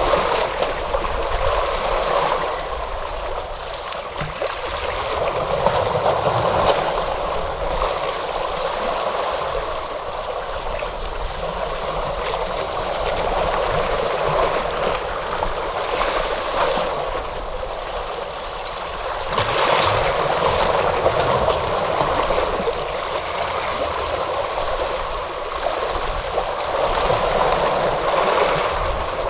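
Ocean surf: a continuous rush of waves washing in, swelling louder and easing off every several seconds.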